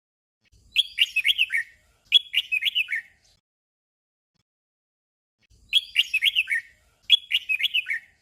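Red-whiskered bulbul singing its short 'double' song: two quick warbling phrases back to back, each stepping down in pitch. After a pause of about two and a half seconds the pair comes again.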